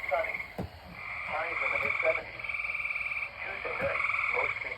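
Chorus of tree frogs trilling: overlapping pulsed trills about a second long each, at two different pitches, repeating one after another.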